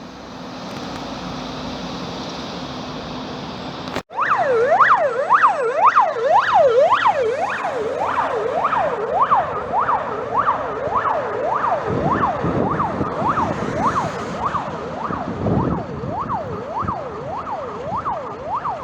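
A fire engine's electronic siren in yelp mode, sweeping quickly up and down about one and a half times a second. It starts suddenly about four seconds in, after a steady rushing noise.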